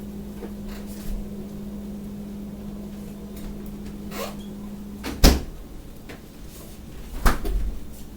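A kitchen appliance hums steadily, then cuts off about five seconds in, followed at once by a loud clunk and a second clunk about two seconds later, like an appliance door being opened and shut.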